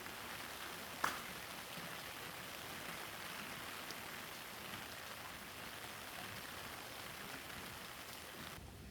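Steady rain falling, an even hiss, with a single sharp click about a second in.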